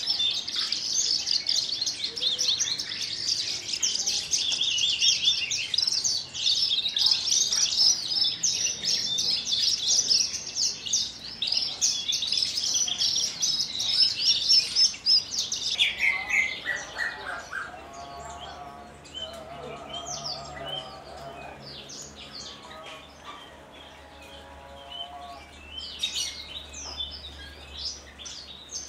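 Javan bush lark singing a fast, dense run of high-pitched chirping notes that ends in a descending run about halfway through. Quieter, lower repeated warbling phrases follow, and a brief burst of high notes comes near the end.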